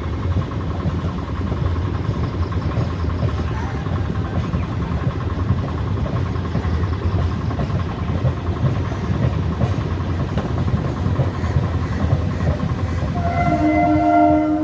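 A train running by with a steady low rumble. Near the end its horn sounds, a chord of several tones held for about a second and a half.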